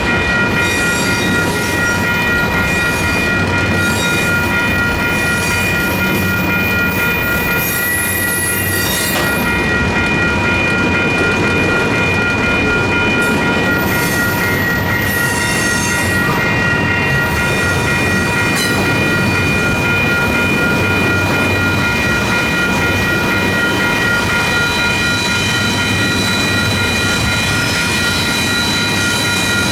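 Union Pacific double-stack intermodal freight cars rolling past a grade crossing, with steady wheel and rail rumble and high wheel squeal that comes and goes. The crossing's electronic warning bell rings steadily throughout.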